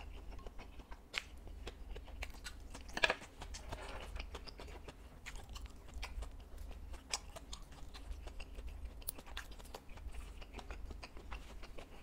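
Close-up chewing and biting of crunchy fried food, with irregular sharp crackles and crunches throughout and one loud crunch about three seconds in.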